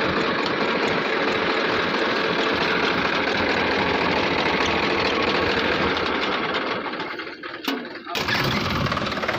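Diesel tractor engine running hard under load. Near the end the sound dips briefly, with a sharp click, then the engine noise comes back.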